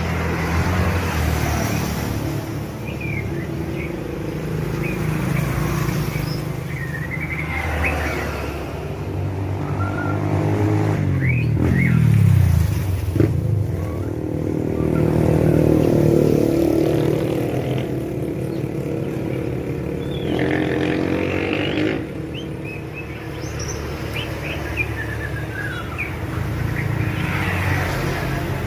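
Young white-rumped shama giving short chirps and snatches of song, its practice song still unformed, over steady, louder engine and traffic noise, in which one engine's pitch slides down about twelve seconds in.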